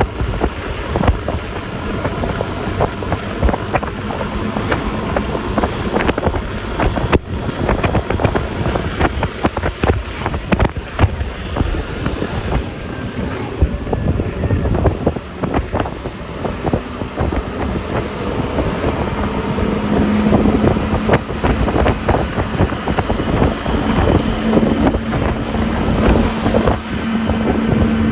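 Road noise from riding a Yamaha Lexi LX 155 scooter: wind buffeting the microphone over the running engine and tyre noise. A steady low hum comes in about two-thirds of the way through and again near the end.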